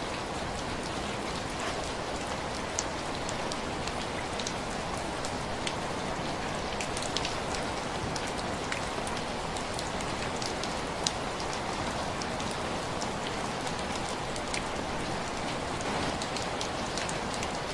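Heavy rain falling steadily, an even hiss with many scattered sharp ticks and clicks through it.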